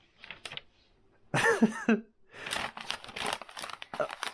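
A short, loud wordless vocal sound from a child, its pitch bending, then steady crinkling and rustling, like paper towel or its wrapping being handled.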